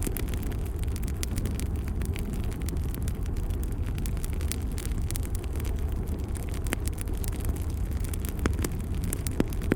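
Wood fire burning in a fireplace: a steady low rumble of the flames with frequent sharp crackles and pops, one louder pop near the end.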